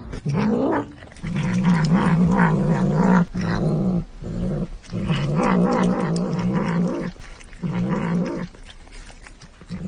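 A pet animal growling in several long, wavering bouts with brief pauses between them.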